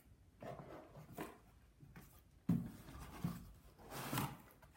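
Rustling and scraping of paper and cardboard packaging being handled as a gift box is unpacked, with a soft knock about two and a half seconds in.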